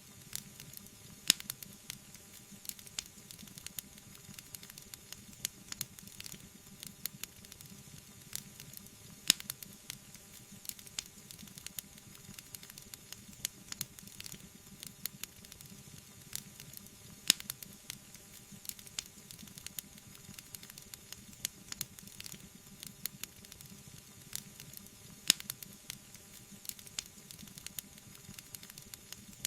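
Wood fire burning in a fireplace, crackling steadily with a soft hiss and many small snaps, and a sharp louder pop about every eight seconds.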